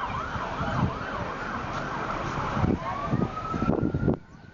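Emergency vehicle siren in a fast yelp, its pitch rising and falling about twice a second, switching about two-thirds of the way through to one long, slowly rising tone that cuts off near the end. Low traffic rumble underneath.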